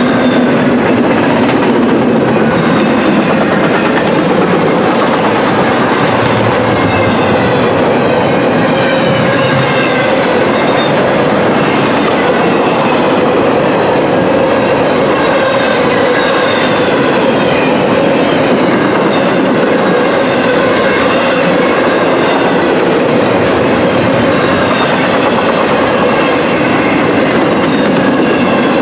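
Intermodal double-stack container train passing: steady, loud rumble and clatter of the well cars' wheels on the rails.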